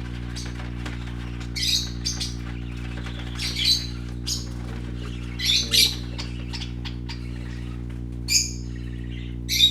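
Small pet parrots giving short, sharp chirps and squawks every second or two, over a steady low hum.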